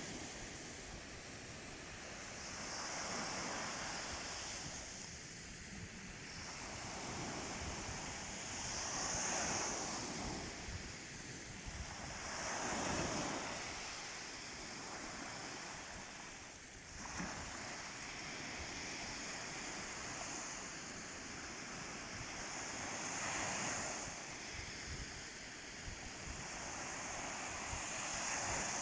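Baltic Sea waves breaking gently on a sandy beach, swelling and falling back every few seconds, with wind buffeting the microphone.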